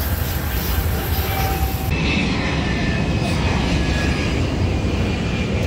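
Jet airliner taking off, its engines at takeoff power: a loud, steady rumble with thin high whining tones.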